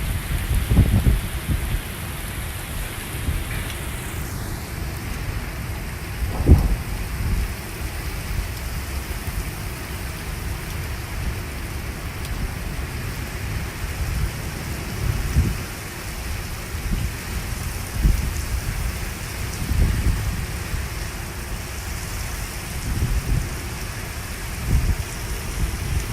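Heavy rain falling steadily. Low rumbles swell up and fade away every few seconds.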